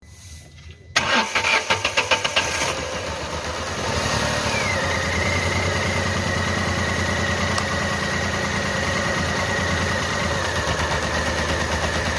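Renault Kwid's 799 cc three-cylinder engine cranked and started about a second in, then settling into a steady idle from about four seconds in. It is running with its number 2 cylinder dead, the misfire that keeps the car from pulling past 40.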